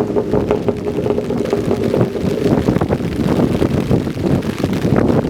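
Exhaust of a Nissan Roox's K6A 660 cc naturally aspirated three-cylinder through an aftermarket dual-exit rear muffler while driving, a steady drone under heavy wind buffeting on the microphone.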